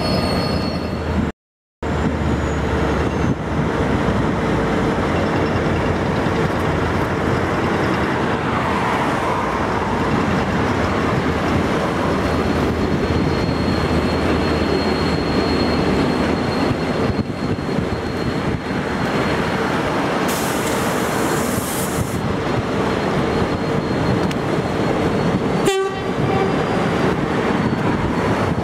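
A train running steadily with a constant hum, with a brief high hiss about twenty seconds in.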